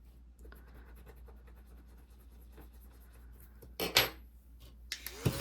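Paper money and binder envelopes being handled: soft paper rustles, with a sharper crinkle about four seconds in and a louder scraping rustle near the end.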